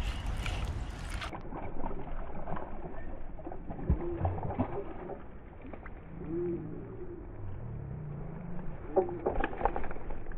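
A bird cooing: a few short, low calls spaced a couple of seconds apart.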